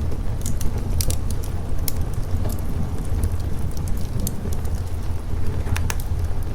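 Wood fire crackling with scattered sharp pops over steady rain and a continuous low rumble.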